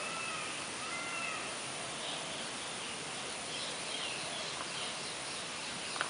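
Bird calls: two short, arched mewing notes near the start, then fainter, higher calls, over a steady hiss.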